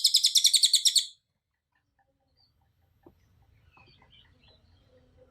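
Cililin songbird singing a loud, rapid trill of evenly repeated high notes, about a dozen a second, which stops about a second in. Only faint background noise follows.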